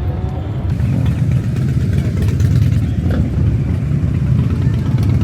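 Motorcycle engine running steadily at idle, loud and low-pitched, getting a little louder about a second in.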